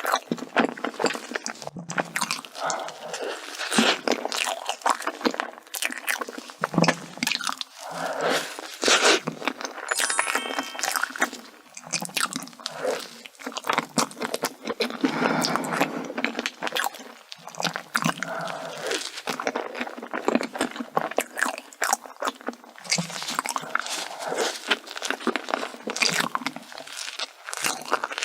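Close-miked eating of chocolate desserts: a person biting and chewing, with a dense run of quick, crisp crackles and crunches.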